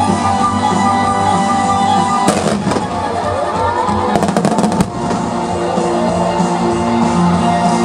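Fireworks set to music played over loudspeakers: a sharp bang about two seconds in, then a quick run of crackling reports around four to five seconds, over the continuing music.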